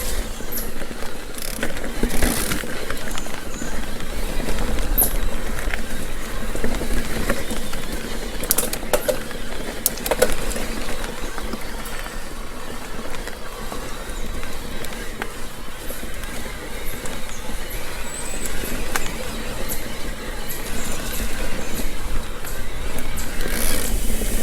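Mountain bike climbing a dirt trail: a steady rolling noise from the tyres on dirt and rock, with scattered sharp clicks and knocks from the bike.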